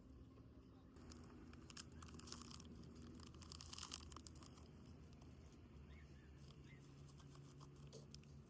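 Faint crinkling and tearing of the plastic wrapper of an Umaibo corn puff snack. The crackles are thickest between about one and four seconds in, then thin out to scattered small clicks.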